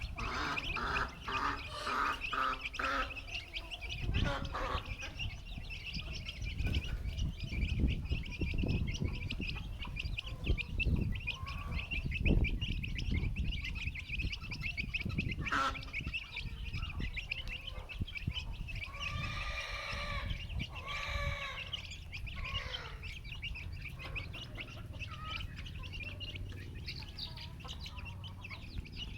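A flock of chicks peeping continuously in rapid, overlapping high chirps, the contented calls of chicks finding and eating worms. A few louder, lower calls stand out at the start and again about two-thirds of the way through.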